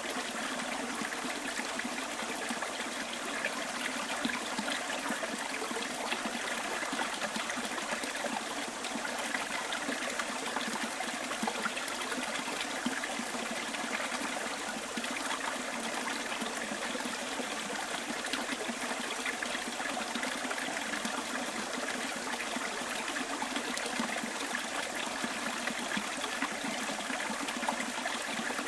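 Small bush stream running over stones, a steady trickling and babbling with no breaks.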